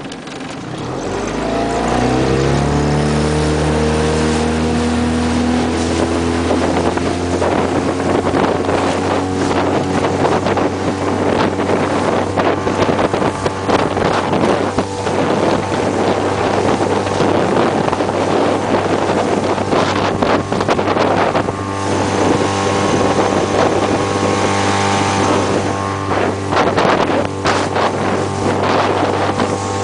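2006 Suzuki 15 hp four-stroke outboard motor under way. Its note climbs over the first few seconds as the throttle opens, then holds steady at running speed, with wind buffeting the microphone.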